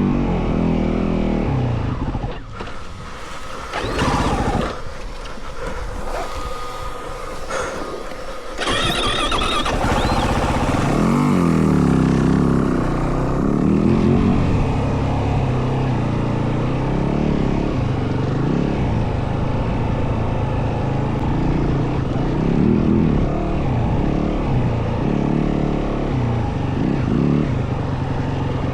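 Yamaha WR450F single-cylinder four-stroke dirt bike engine under way off-road, its revs rising and falling with the throttle. About two seconds in it eases off to a lower level for several seconds, then pulls hard again and keeps working through repeated rev changes.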